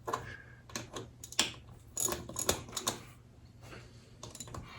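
Irregular light clicks and taps of metal parts and hand tools being handled while setting a motorcycle's front fork legs, thickest in the first three seconds, over a faint steady low hum.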